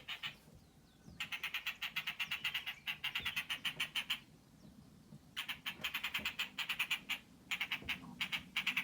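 An unidentified animal calling outside in rapid high-pitched pulsed notes, about ten a second, in bouts of one to three seconds with short pauses between. The owner takes the caller for a bird; the pulsed pattern also fits a calling frog.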